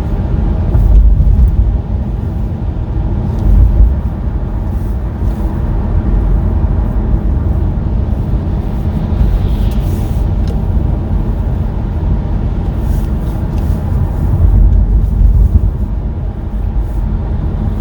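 Car driving along a road: a steady low rumble of engine and tyre noise that swells louder a few times.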